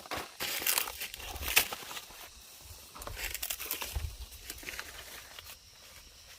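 Irregular crinkling and tearing rustles of something dry being handled, loudest in the first two seconds and again a little past the middle, over a low rumble.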